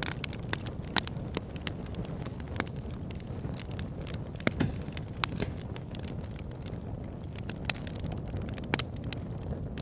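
Wood fire burning in a fireplace: a steady low noise of the flames with scattered sharp crackles and pops, the loudest about a second in and a small cluster near the end.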